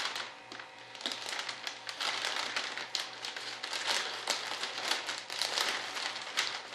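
Plastic crinkling and rustling as it is handled: irregular crackles and rustles, with a faint steady hum under them.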